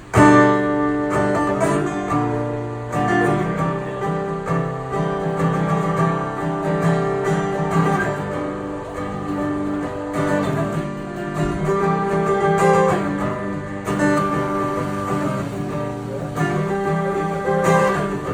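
Acoustic guitar strummed, chords ringing out one after another, starting abruptly.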